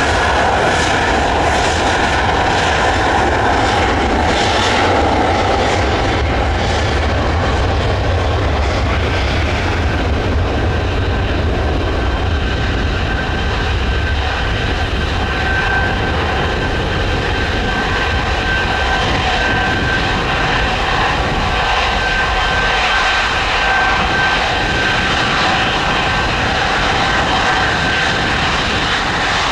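Boeing 777-300ER's GE90 jet engines running steadily at taxi power: a continuous jet rumble and whine, with a thin high steady tone coming in about halfway through.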